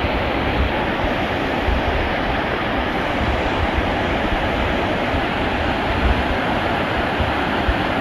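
Mountain stream water rushing steadily over rocks, a loud continuous wash of noise with low rumbling underneath.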